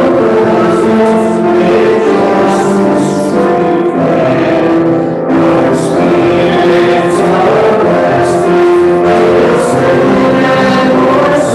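A group of voices singing a hymn together, holding long notes that change in steps.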